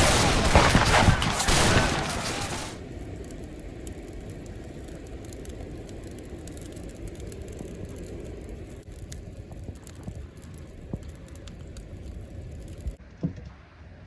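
Wind gusting hard across the microphone in a snow squall, dropping to a steadier, lighter wind about three seconds in, with a few faint clicks and a couple of low thumps near the end.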